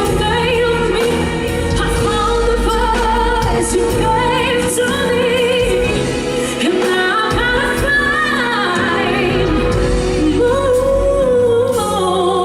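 A woman singing a sustained, melismatic passage of a power ballad with strong vibrato and runs up and down in pitch, over a live band.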